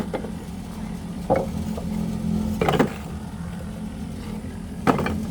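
A motor running steadily with a low hum, with short scraping or knocking strokes about a second in, near the middle, and near the end.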